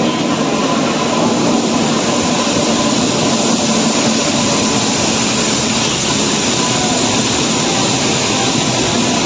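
Kerala Express passenger train running past on the platform line: a loud, steady rumble and rush of the moving train.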